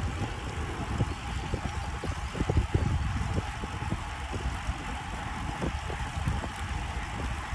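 Wind rumbling and buffeting on the microphone of a camera carried on a moving bicycle, with irregular low thumps throughout.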